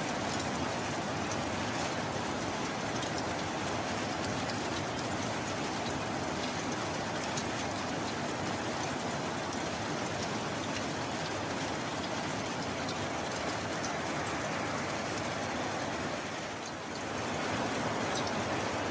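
Steady, heavy rain falling with a dense hiss and fine patter of drops, softening briefly near the end before picking up again.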